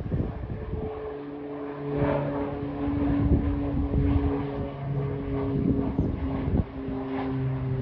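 Airplane engines running steadily: a few even-pitched tones over a low rumble that grows somewhat louder about two seconds in.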